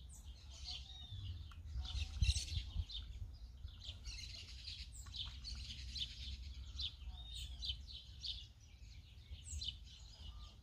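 Several small birds chirping and calling, many short chirps overlapping, over a low rumble, with a dull knock about two seconds in.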